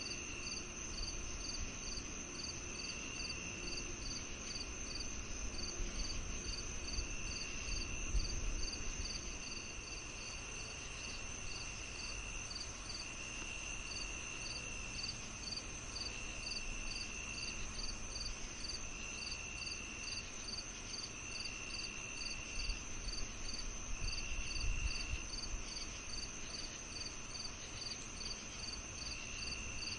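Crickets and other insects calling: a steady high trill, a regular pulsed chirp a little over two times a second, and a lower trill that comes and goes in spells of a second or two. A faint low rumble runs underneath.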